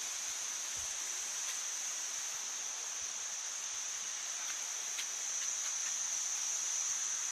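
Steady rushing noise of the Bousra waterfall, with an even high-pitched hiss running over it.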